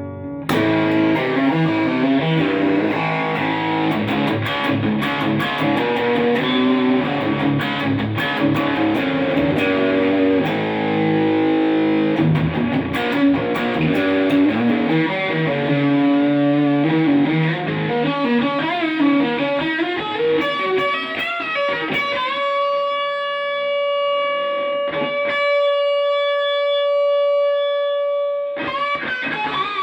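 Electric guitar played through an amplifier: a run of quick single notes and chords, then one note held and ringing out for about six seconds, before more notes near the end.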